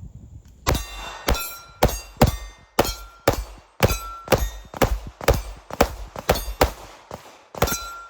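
A ported Springfield Prodigy pistol firing a steady string of shots, about two a second. Several shots are followed by the ring of struck steel targets.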